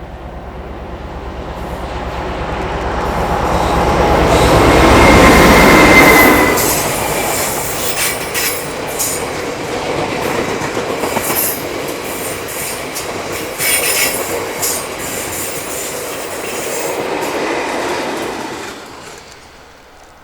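Diesel freight locomotive passing with its engine throbbing, loudest about six seconds in. A string of freight wagons follows with rhythmic wheel clatter over rail joints and a brief squeal, fading away near the end.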